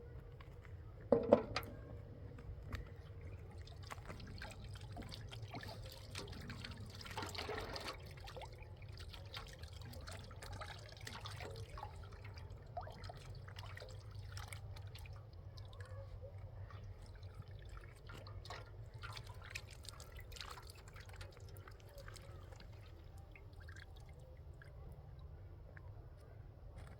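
Liquid being poured briefly, amid scattered small clinks and knocks, with one sharper knock about a second in, over a low steady hum.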